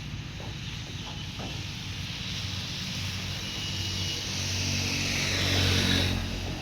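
Engine running steadily, then swelling in level from about four seconds in and dropping back just before the end.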